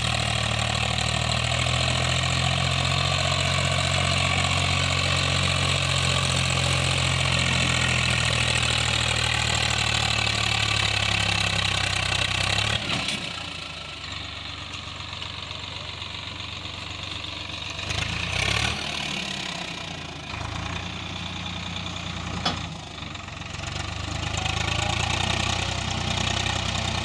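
Swaraj 744 tractor's diesel engine running steadily and loudly. About halfway through it drops quieter, with a sharp knock, and it comes back up to a strong steady run near the end.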